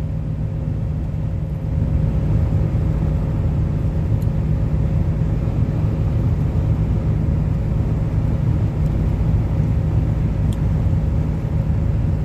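Steady low rumble of a car, with a faint steady hum above it and a few small ticks.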